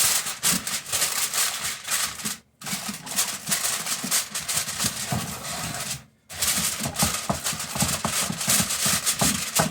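Aluminum foil crinkling and rustling as a sheet is handled and pressed down over a casserole dish, with two brief breaks.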